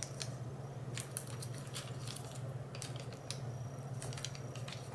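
A sheet of origami paper being folded and creased by hand: scattered light taps and paper rustles, over a steady low hum.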